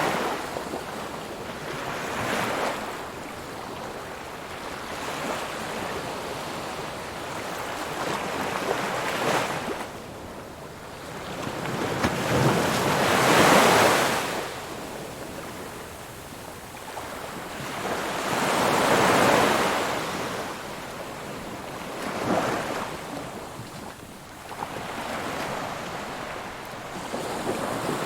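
Ocean waves breaking and washing on a shore, the surf swelling and fading in irregular surges, the biggest about halfway through and again about two-thirds of the way through.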